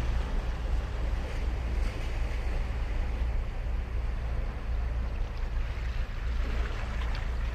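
Ocean surf breaking and washing up a sandy beach, a continuous rush that swells and eases, over a steady low rumble of wind on the microphone.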